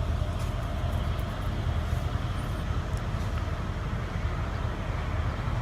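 Steady low rumble with a few faint, light clicks.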